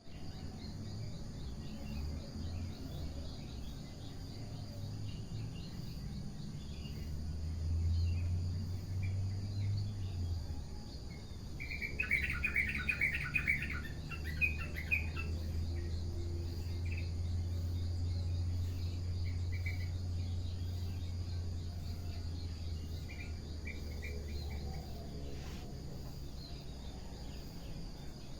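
Birds singing, with one bird giving a loud run of rapid chirps a little under halfway through and shorter phrases later. Underneath are a steady, pulsing insect trill and a low rumble.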